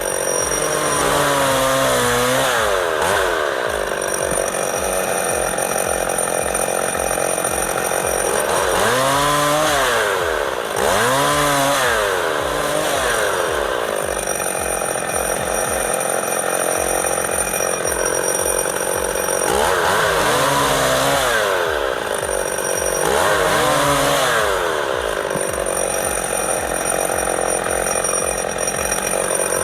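Chainsaw engine running while cutting wood, its pitch revving up and falling back several times.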